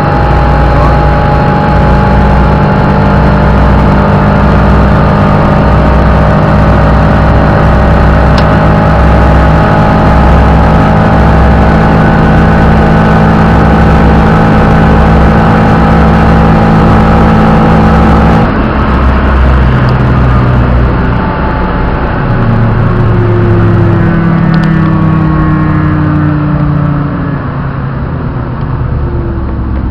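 A car engine held at steady revs for a long stretch, its note unchanging. After about eighteen seconds it changes abruptly to lower engine notes that rise and fall slowly.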